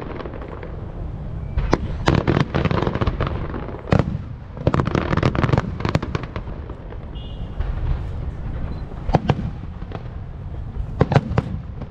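Aerial fireworks bursting in volleys of sharp bangs and crackle: a cluster about two seconds in, a longer run from about four to six seconds, a single bang near nine seconds and a quick few near the end.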